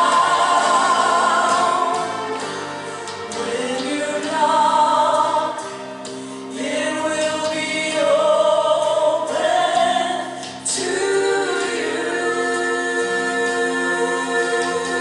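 Choir singing a slow gospel worship song, long held notes in phrases with short breaks between them.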